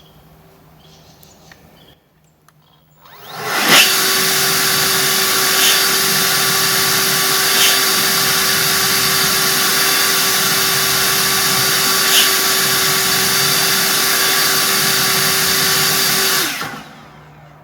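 EGO cordless leaf blower's brushless fan motor spinning up quickly, blowing at full speed with a steady whir and a fixed tone for about thirteen seconds, then switched off and spinning down.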